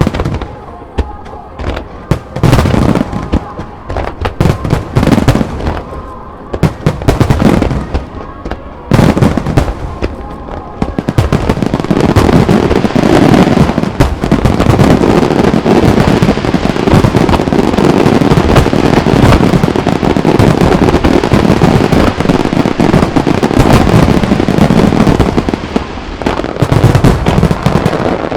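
Aerial fireworks shells bursting: separate loud bangs at first, then from about nine seconds in a dense, continuous barrage of overlapping bursts and crackle.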